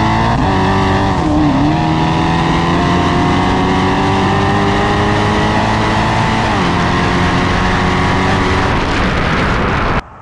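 A car engine at full throttle, climbing steadily in pitch and dropping twice at gear shifts, about a second and a half in and again about six and a half seconds in. The sound cuts off abruptly near the end.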